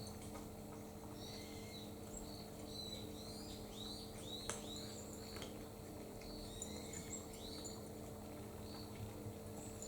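Small birds chirping repeatedly, many short calls that slide downward in pitch, over a steady low hum. A single sharp tick sounds about four and a half seconds in.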